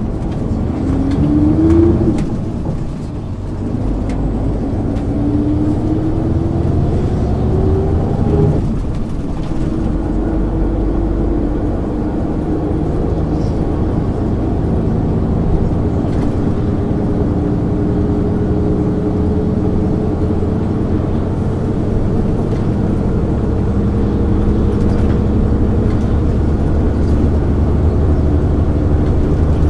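MAN ÜL 353 bus's diesel engine pulling away, rising in pitch through the gears. The pitch drops at upshifts about two seconds in and about eight seconds in, then the engine settles into a slowly rising, steadier note under load.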